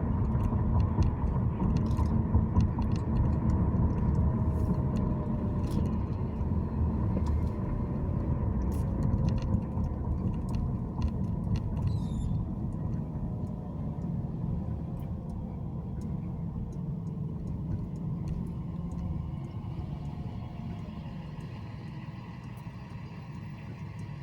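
Car being driven along city streets: a steady low road-and-engine rumble that grows gradually quieter over the second half.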